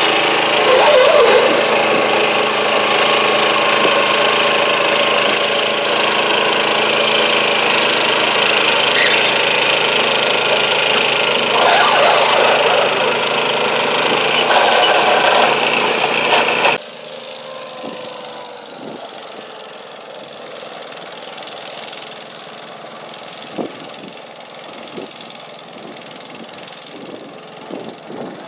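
Garden tractor engine running loud and steady. About two-thirds of the way in the sound drops off abruptly, leaving a quieter engine idling with scattered light knocks.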